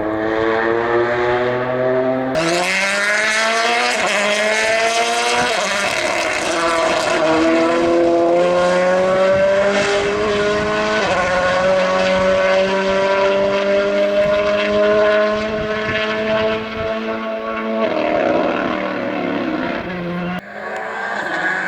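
Rally car engine at full throttle, pulling through the gears: its pitch climbs and drops back at each upshift, several times over, then it eases off near the end.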